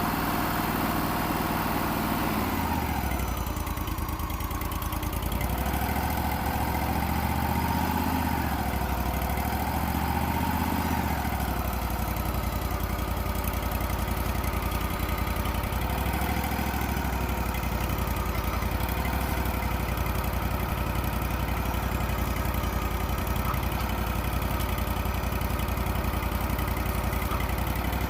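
Engine of a Wood-Mizer LT35 sawmill running steadily, its pitch dropping about two and a half seconds in and then holding, with a wavering higher whine for several seconds after.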